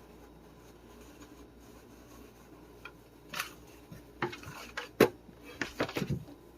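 A few sharp knocks and clatters of hard objects being handled, starting about halfway through, with the loudest knock about five seconds in and a short rattle near the end.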